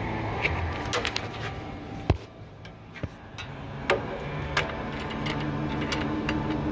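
Lincoln Town Car engine running through its Roush axle-back exhaust, a steady low hum broken by several sharp clicks. The hum drops away for about a second and a half about two seconds in, then returns.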